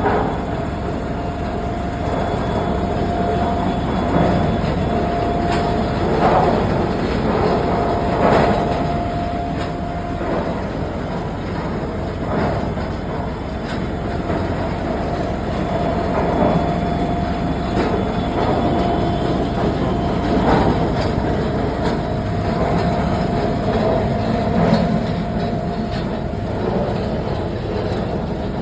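A mobile road repair and patching machine running: a steady mechanical rumble with a constant whine, and a louder knock or clatter every few seconds.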